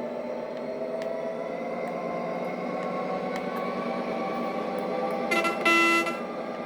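Train passing through a station at speed, with a steady rolling noise of wheels on rail whose tones slowly slide in pitch. Near the end the train's horn sounds twice: a short blast, then a longer, louder one.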